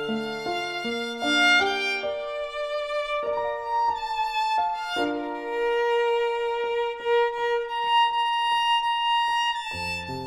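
Violin playing a melodic instrumental break of a slow ballad: a run of moving bowed notes, then a long held note with vibrato through the middle, before the melody moves on again.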